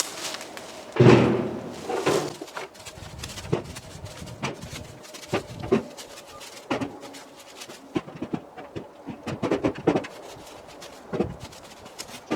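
Irregular knocks and thuds of cut ash firewood rounds being handled and stacked, with one heavier thud about a second in.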